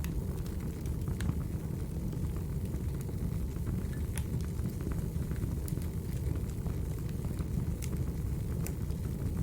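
Wood fire burning: a steady low rumble with scattered sharp crackles and pops of burning firewood.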